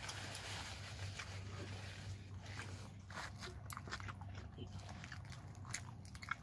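Crisp fried lumpiang shanghai (spring rolls) crunching as they are bitten and chewed close to the microphone: a run of sharp crackles that gets busier after the first couple of seconds.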